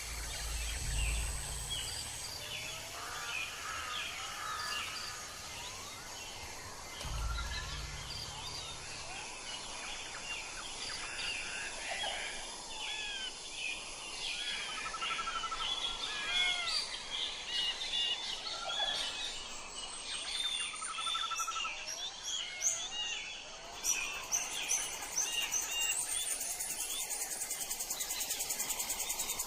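Wildlife chorus of many short chirping calls from animals in the forest, overlapping throughout, with a fast high insect trill setting in about three-quarters of the way through. Two brief low rumbles sound in the first ten seconds.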